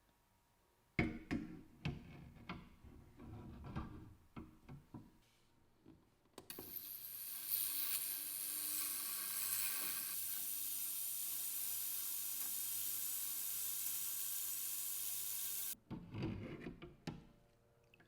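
A string of small clicks and knocks, then a steady hiss for about nine seconds that cuts off suddenly, followed by a few more knocks.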